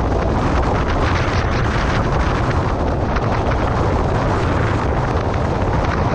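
Gale-force wind blasting across the camera's microphone: loud, continuous buffeting noise with a deep rumble and constant crackle.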